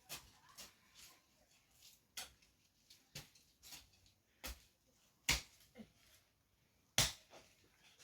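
Jembe hand hoe chopping into garden soil: a series of separate strikes at irregular intervals, roughly one a second, with two louder blows about five and seven seconds in.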